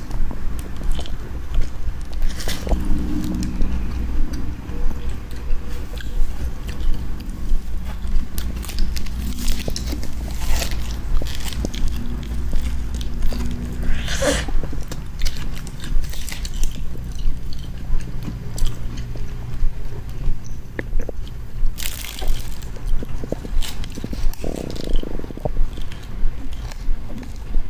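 Someone biting and chewing sweet corn on the cob, heard close up, in a steady chewing rhythm.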